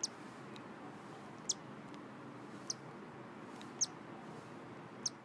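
Newly hatched cockatiel chicks peeping: five short, high-pitched peeps about a second apart over faint background hiss.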